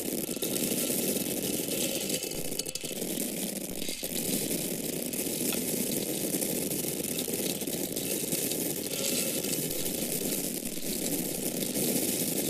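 Dry grains or corn kernels pouring and falling in a steady, dense patter.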